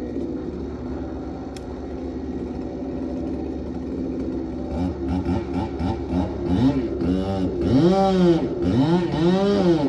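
Husqvarna two-stroke chainsaw running steadily, then from about five seconds in revved up and down repeatedly, each rev a quick rise and fall in pitch.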